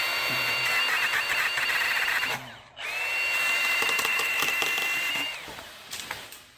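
Milwaukee M18 Hatchet battery mini chainsaw running in two bursts, cutting through a branch with a steady high whine. It pauses briefly about two and a half seconds in, then cuts again and stops a little after five seconds in.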